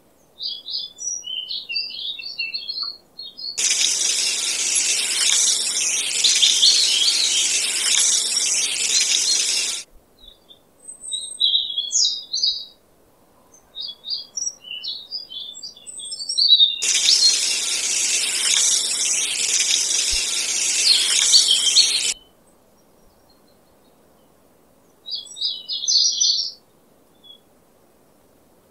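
Small dry seeds poured into a paper cup, a dense rattling hiss that starts and stops sharply, twice, about six seconds each time. Short bird chirps come and go in between.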